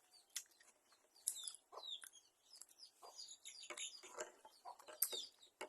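Chickens clucking with small birds chirping, a scattered run of short, irregular calls and clicks.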